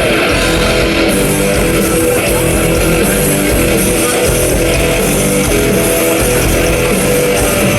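Rock band playing live and loud, with strummed electric guitar to the fore over bass.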